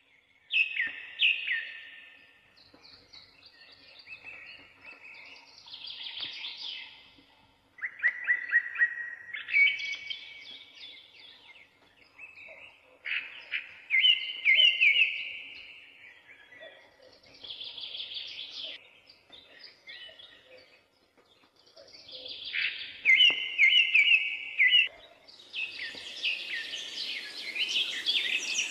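Birdsong: phrases of bright chirping and warbling calls come in bursts every few seconds, and the chirping grows denser with a hiss behind it near the end.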